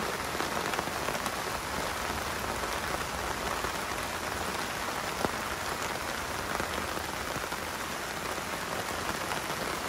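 Torrential summer rain falling steadily on grass, puddles and paved paths: a dense, even hiss of downpour.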